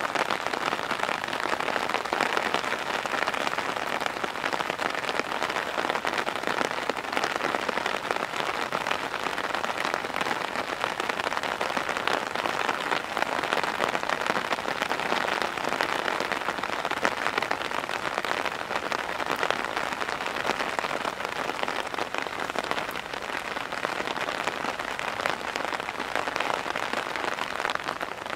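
Heavy downpour of rain: an even, steady hiss of falling drops.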